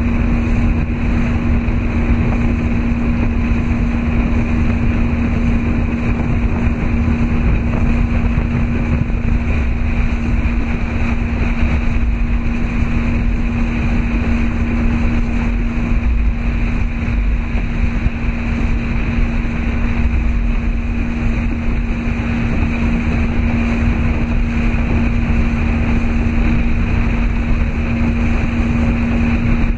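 Motorboat engine running at a steady speed, a constant hum under loud wind and water noise.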